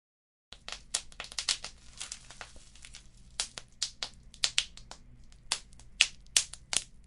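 Wood fire crackling, with irregular sharp pops from the burning logs and embers over a faint low rumble. It starts suddenly about half a second in, after a moment of dead silence.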